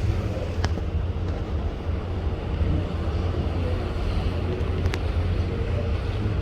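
Steady low rumble of a ship underway, with wind noise on the microphone. Two faint clicks, about half a second in and near the end.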